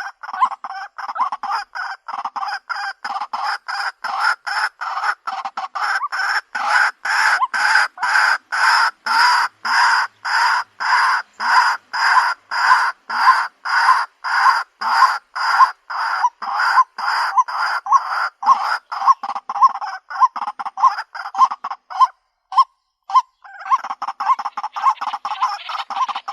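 White-breasted waterhen calling: a long series of loud, evenly repeated croaking notes, about two a second. The calls break off briefly a little past the 22-second mark, then resume as a denser, quicker chatter near the end.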